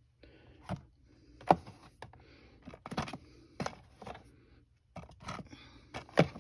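Plastic DVD cases being handled and moved about: an irregular string of sharp clicks and knocks with light scraping between them.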